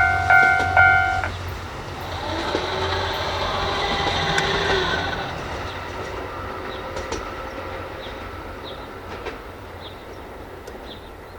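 An electronic warning bell pulses about twice a second and stops about a second in. Then the train of an EF81 electric locomotive and E26-series Cassiopeia sleeper cars rolls on, its wheels on the rails swelling and then slowly fading away, with a few rail-joint clicks.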